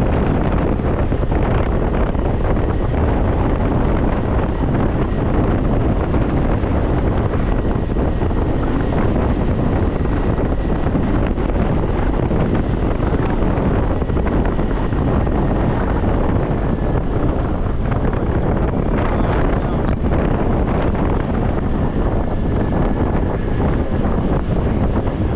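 Steady wind rush on the microphone of a moving scooter, with the scooter's running and road noise underneath. A faint thin high whine comes and goes partway through and again near the end.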